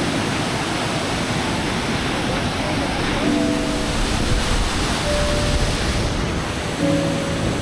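Steady rushing roar of a waterfall, with faint music underneath: a few held notes come and go.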